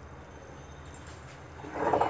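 Thick tomato, coconut and peanut masala paste frying in oil in a nonstick kadai, with a low steady hum and then one louder spluttering burst that builds near the end. The masala is at the stage where the oil has separated and it is being fried to drive off the raw taste.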